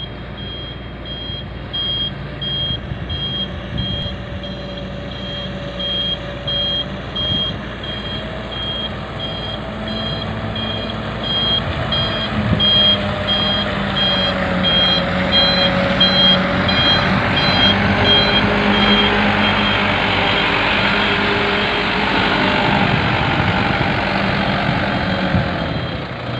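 Heavy diesel machinery running, with a reversing alarm giving steady repeated beeps that fade out about two-thirds of the way through. The engine note rises and falls as it works, and it grows louder and rushing in the second half.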